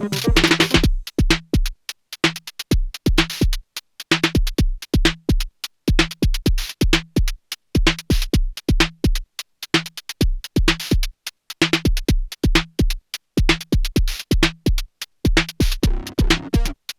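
Erica Synths Perkons HD-01 analogue drum machine playing a steady techno beat at 128 bpm: a deep kick with short percussive hits. About a second in, the busier sustained layer drops out, leaving sparse dry hits. That layer comes back in near the end.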